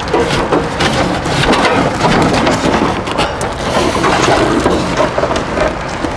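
Old Atwood RV water heater being slid out of its wall compartment, its metal case scraping and knocking with a dense run of rattles and clunks.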